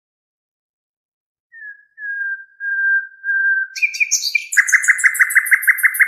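A songbird singing: after a pause, a few long, level whistled notes, then from about four and a half seconds in a fast, even trill of about nine notes a second.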